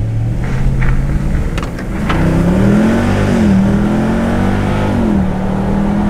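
Jeep's engine, heard from inside the cabin, accelerating hard from a launch. Its pitch climbs and drops back at gear changes about two and three and a half seconds in, then holds fairly steady.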